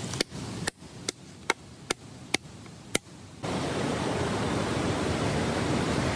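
Steady rush of river water, starting abruptly about three and a half seconds in. Before it comes a quieter stretch with about seven sharp clicks, roughly two a second.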